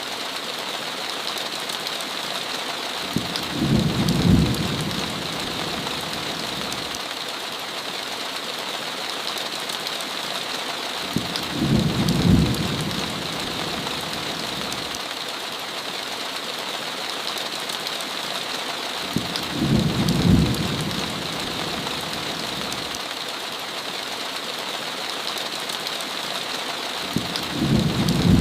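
Steady heavy rain on a window, with a short low rumble of thunder four times, about every eight seconds.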